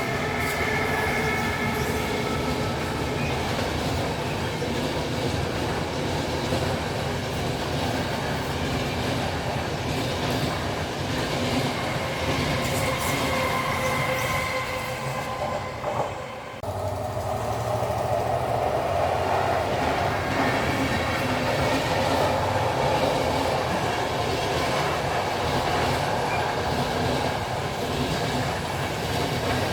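Train running on the tracks, a steady rolling rail noise with a faint steady tone above it. The sound briefly dips and changes about sixteen seconds in.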